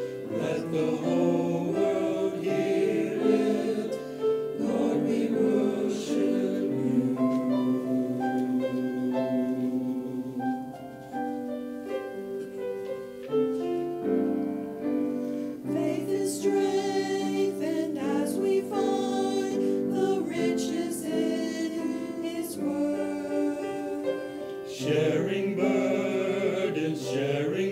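Choir singing a worship song in held, changing notes.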